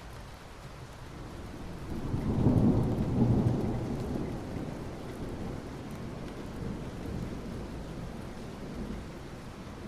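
Steady soft rain falling on asphalt, with a low rumble of thunder that swells about two seconds in and fades away over the next few seconds.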